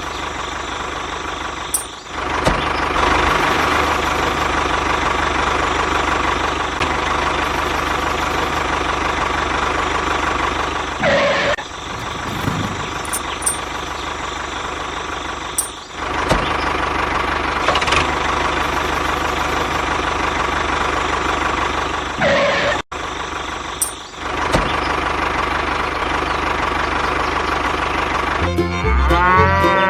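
Small motor of a home-built mini bulldozer running steadily, broken off by several abrupt cuts. Music comes in near the end.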